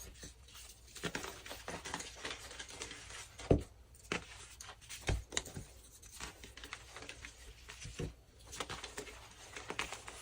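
Deep-dyed BSN gym chalk blocks being crushed and crumbled: a steady run of crisp crunches and crackles, broken by three heavier thuds spread through.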